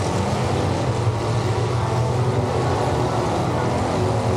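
Several demolition derby cars' engines running and revving together in a steady, unbroken din.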